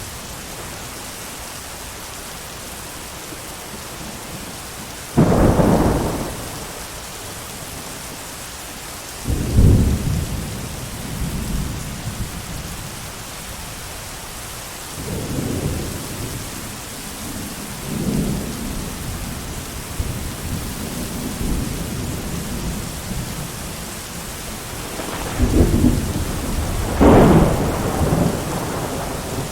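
Steady heavy rain with rolls of thunder. A sudden loud rumble comes about five seconds in, weaker rumbles follow over the middle, and two more loud rolls come near the end.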